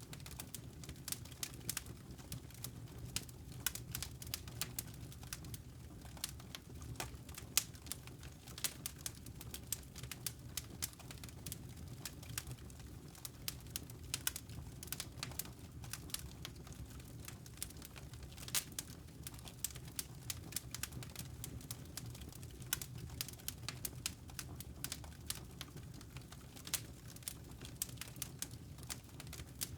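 Wood fire crackling in a fireplace: irregular sharp snaps and pops, some louder than others, over a steady low rumble of the burning fire.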